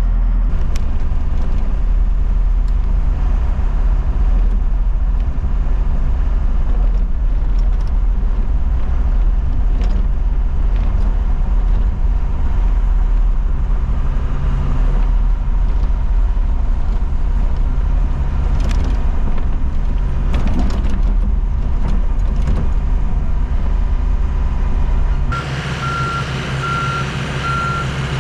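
Freightliner M2 106 diesel truck engine running with a steady low rumble. About 25 seconds in, the sound changes to a quieter engine with a reversing alarm beeping at an even pace as the truck backs up.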